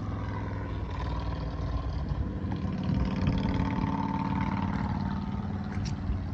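Small kei-truck engine, the 2007 Daihatsu Hijet Jumbo's 660 cc three-cylinder, idling steadily.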